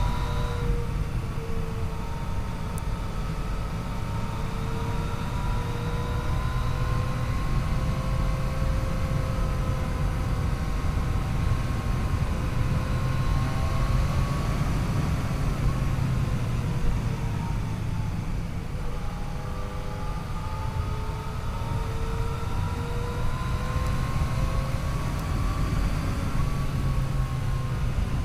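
Yamaha FJ-09's three-cylinder engine running on the move. Its pitch climbs slowly, eases back around the middle, climbs again and drops near the end, over a steady low rumble of wind and road noise.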